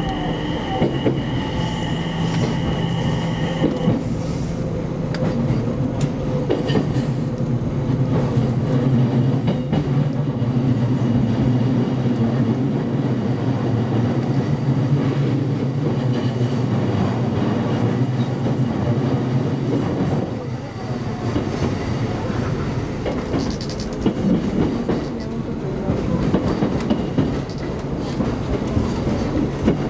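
Electric commuter train running slowly through curves and pointwork, heard from inside at the front: a steady low running hum, with a thin high wheel squeal in the first few seconds and wheels clattering over the points near the end.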